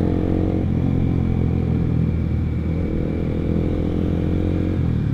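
Honda CBR150R's single-cylinder engine through an R9 aftermarket exhaust, running at a steady pace while riding, its note holding roughly constant pitch.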